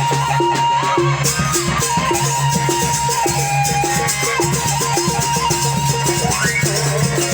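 Sasak ale-ale ensemble music: a held, ornamented melody line over a repeating short figure, a steady low drone and constant shaken and struck percussion. The melody slides up near the end.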